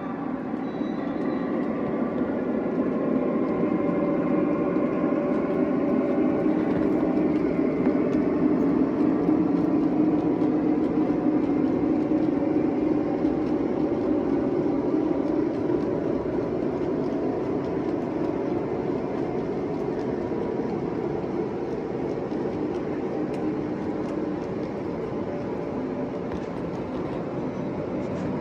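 O scale model train running on its track: a steady rumble of motor and wheels that grows louder up to about ten seconds in, then slowly fades.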